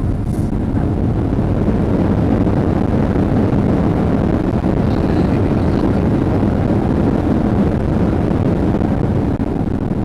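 Boeing 737 cabin noise heard from inside the cabin: a loud, steady rumble of the engines and airflow, strongest in the low range, with no distinct events.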